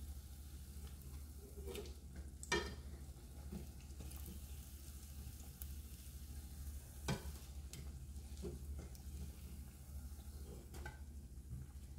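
Oat-crusted potato and cabbage patties frying in oil with a faint, steady sizzle. A metal fork clicks sharply against the pot a few times as they are turned, loudest about two and a half seconds in and again about seven seconds in.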